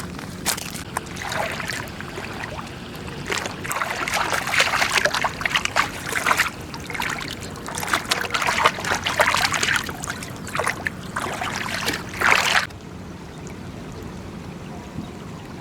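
Water splashing and sloshing in irregular bursts, which stop abruptly near the end, leaving a quieter steady background.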